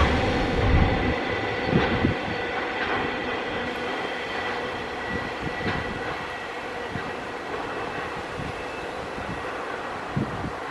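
Container freight train's wagons rolling along the track, with occasional sharp wheel knocks and a low rumble that fades as the last wagons pass and move away.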